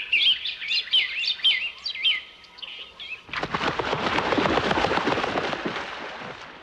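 Small birds chirping and twittering in quick repeated phrases for about two seconds. A little past three seconds in, a loud, even rushing noise starts suddenly and slowly fades away.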